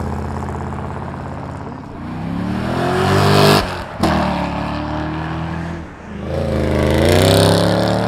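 A car engine and exhaust pulling hard, revving up in pitch, cutting out abruptly about three and a half seconds in for a gear change, then climbing again through the next gear.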